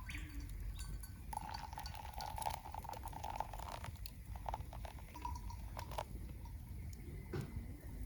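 Frogs calling from nearby rice paddies: a long run of rapid, pulsing croaks, then a few shorter bursts of croaks.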